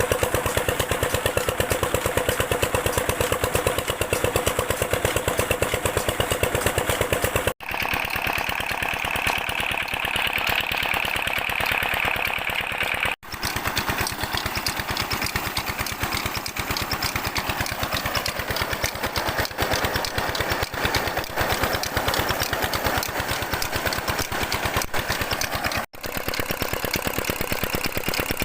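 Tube-well pump's diesel engine running with a rapid, even beat of firing strokes. The sound cuts out briefly three times.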